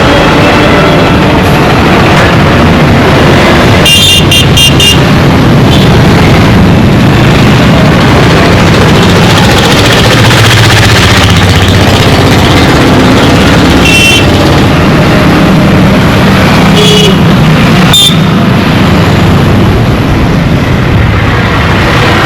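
Heavy Indian street traffic: motorcycle and car engines running in a dense, steady rumble, cut by short horn toots. A quick run of about four beeps comes about four seconds in, and more single toots follow later.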